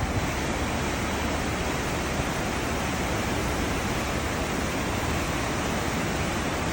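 Cruise ship wake: churning, foaming water rushing steadily past the hull, a constant noisy wash with a low rumble underneath.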